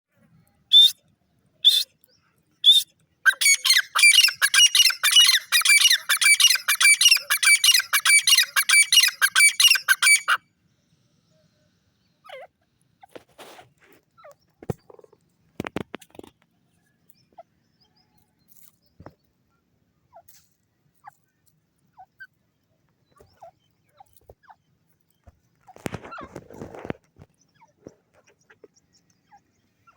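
Grey francolin calling: three loud single notes, then a fast run of rapidly repeated shrill notes lasting about seven seconds. After that there are only a few faint scattered sounds.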